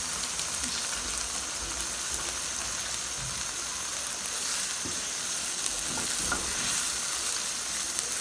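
Spinach and chickpea masala sizzling steadily in a non-stick pan as the reserved chickpea-boiling water is stirred in with a silicone spatula, with a few soft scrapes of the spatula.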